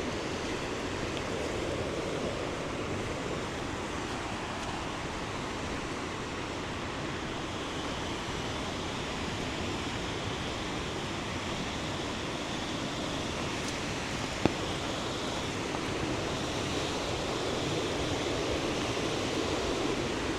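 Steady rushing of water from a flooded river, with one short sharp tick about fourteen seconds in.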